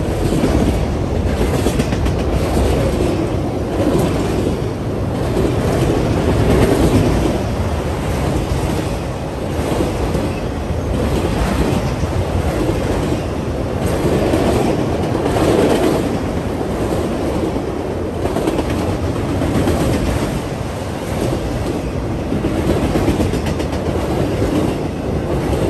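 Freight train of autorack cars rolling past close by: a steady rumble of steel wheels on rail with the clickety-clack of wheels over rail joints.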